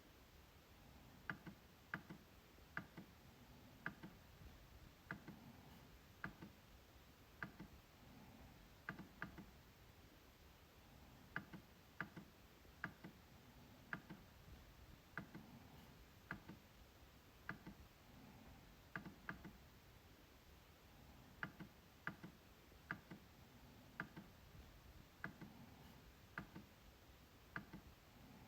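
MacBook trackpad clicking, quiet single clicks and quick double clicks at uneven intervals of about a second.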